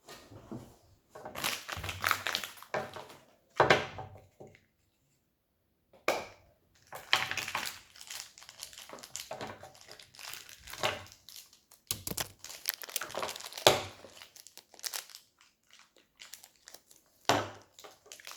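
Plastic toy packaging crinkled and handled as a blind pack is opened, in irregular bursts with a few sharper crackles and a brief pause about five seconds in.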